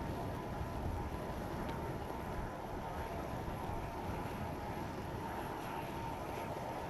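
Steady whine and rumble of a parked jet aircraft's turbines, with wind gusting on the microphone.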